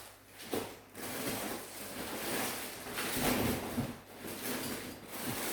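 Rummaging through small items: irregular rustling and handling noise with a few light knocks, as things are moved about in a search for screwdrivers.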